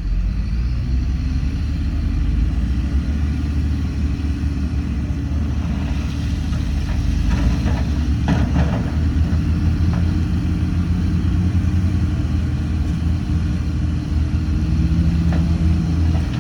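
Heavy diesel engine of earthmoving equipment running steadily under load, its pitch rising in the first second or so and then holding. A few short clanks come around the middle.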